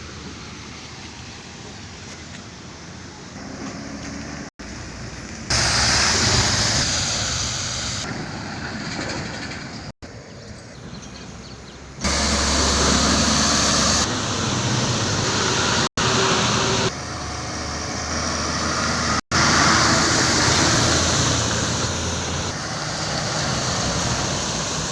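Road vehicle noise, engines and tyres running, in several short segments that change abruptly in loudness with sharp cuts between them.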